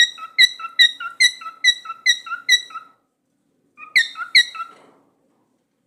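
Cockatiel calling in a run of short, sharp, squeaky chirps, about two a second, for three seconds; after a pause of about a second, two more chirps.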